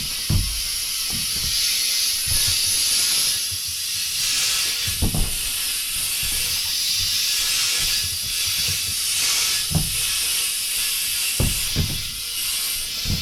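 Compressed air hissing steadily, as from a tire being aired up or let down, with a few dull knocks in between.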